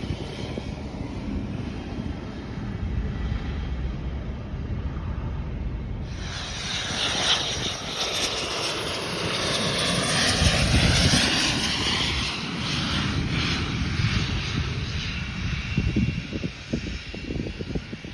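An airplane's engines passing close by. A low rumble gives way about six seconds in to a sudden loud rush of high-pitched engine noise, with a whine that slides down in pitch as it passes, then slowly fades.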